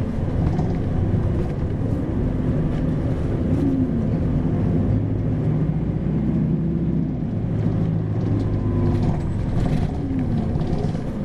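Isuzu 2RG-LV290N4 city bus's four-cylinder diesel engine heard from inside the cabin while the bus drives, a steady low drone whose pitch rises and falls a few times.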